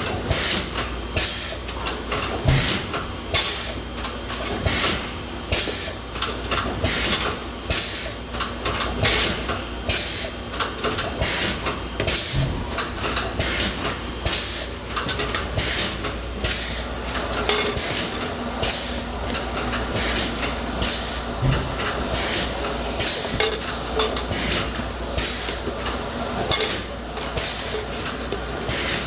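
Automatic shrink-wrapping machine running on airtight plastic food containers: a steady low hum with frequent, irregular clicks and clatter of the containers and machine parts.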